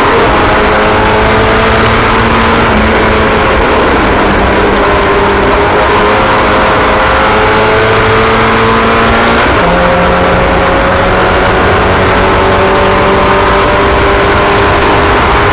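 Several small racing engines running together at speed, their pitches rising slowly and overlapping, with one engine note shifting about halfway through.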